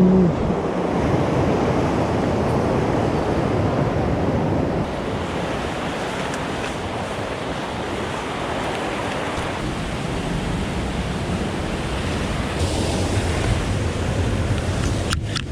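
Swollen mountain stream in spate, a steady rush of fast water.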